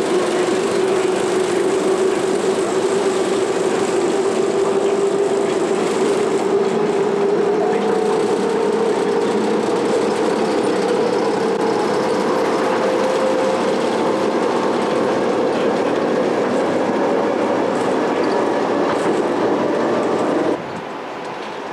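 A rail vehicle running along the track, its running noise carrying a steady whine that climbs slowly in pitch as it gathers speed. The sound cuts off abruptly near the end.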